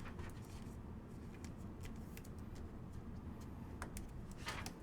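Faint scattered clicks and ticks of trading cards being handled and flipped through, over a low steady hum.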